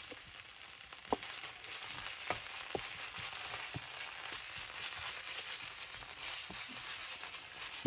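Red curry paste and chopped onions frying in oil in a wok, a steady sizzle, while a wooden spoon stirs and scrapes through them, with a few light knocks of the spoon on the pan in the first few seconds.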